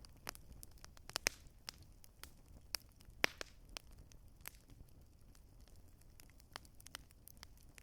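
Campfire crackling: irregular sharp pops and snaps, several a second, with a louder pop about three seconds in.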